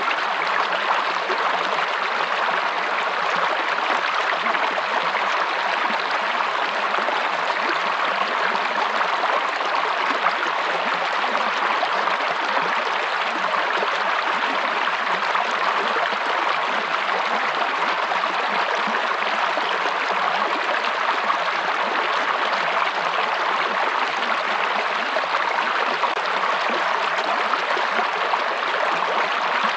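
Running water, an even, steady rush that holds without a break or change.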